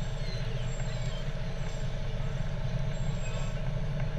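Heavy truck engines running steadily, a low even drone, as fire trucks idle or roll along in a parade.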